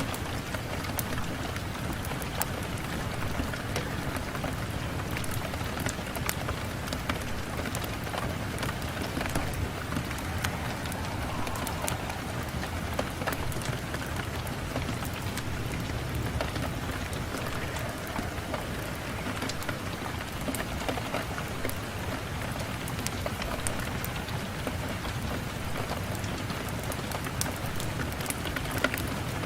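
Steady rain on a window, a continuous hiss dotted with many small, sharp drop ticks.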